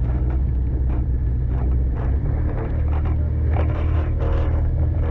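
Boat engine running steadily under way, a low drone, with repeated short splashes and wind on the microphone.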